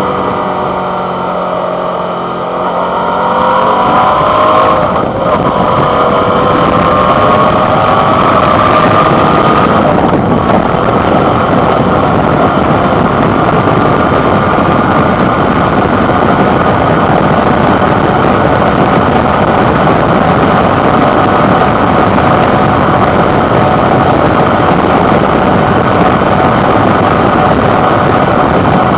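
Suzuki V-Strom 650 XT's 645 cc V-twin engine picking up revs under acceleration, with a brief dip about five seconds in as it shifts gear, then holding steady at cruising speed under a loud, even rush of wind and road noise on the handlebar microphone.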